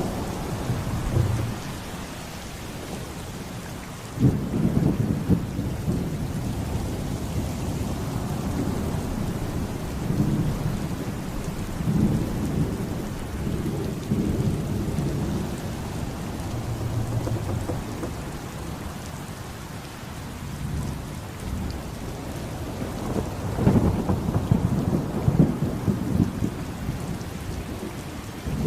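Thunderstorm soundscape: steady rain with rolling thunder, the rumbles swelling suddenly about four seconds in and again near the end.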